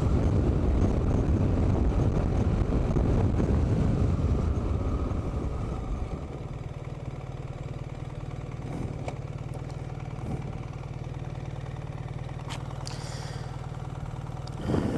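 Wind rushing over an unshielded helmet microphone above the rumble of a BMW R 1300 GS boxer twin as the motorcycle rides and slows. About six seconds in the wind drops away and the engine idles steadily, with a few faint knocks.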